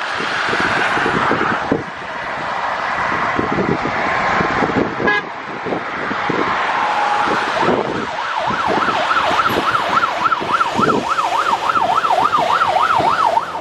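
Fire engine siren switching to a fast yelp about eight seconds in, its pitch swinging up and down about two and a half times a second. Before that, wind buffeting on the microphone and vehicle noise, with a few held tones.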